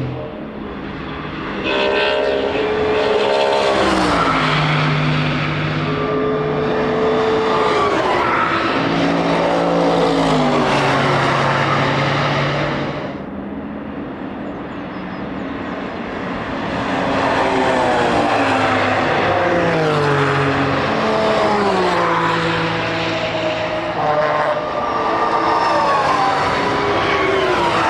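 Race cars accelerating hard past the track edge, each engine note climbing and then dropping at every upshift. There are two loud passes, the second starting about halfway through after a brief lull.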